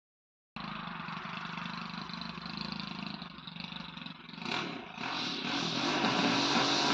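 Lawn mower engine running steadily, starting abruptly about half a second in; about four and a half seconds in its note changes and it runs louder.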